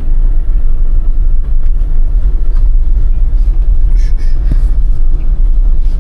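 Off-road vehicle driving, heard from inside as a loud, steady low rumble of engine and tyres.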